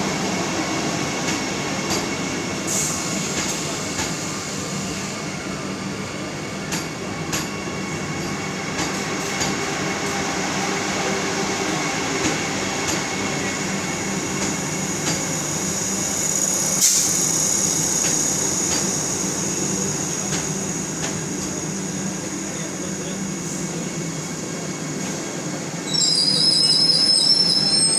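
Vande Bharat Express train running on the track: a steady rumble with scattered rail clicks and a brief high wheel squeal partway through. Near the end a short, wavering high-pitched tone comes in over it.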